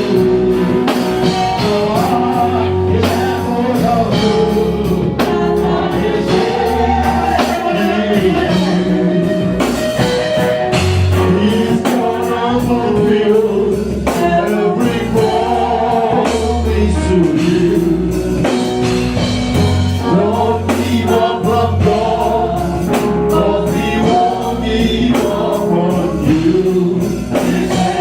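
Gospel praise music: voices singing over a band with a bass line and a steady beat.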